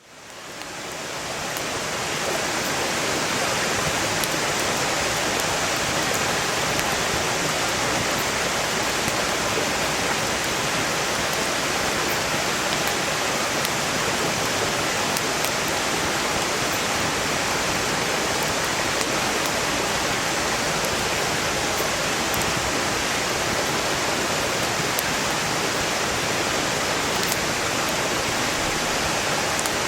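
Steady rush of a flowing valley stream, fading in over the first two seconds, with sparse faint crackles of burning firewood.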